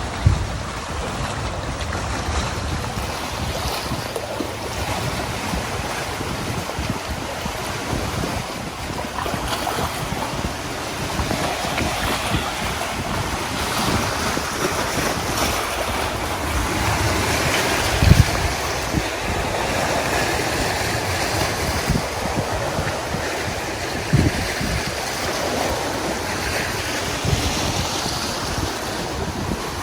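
Steady rushing of wind and water, with wind buffeting the microphone in low rumbles and a couple of short thumps.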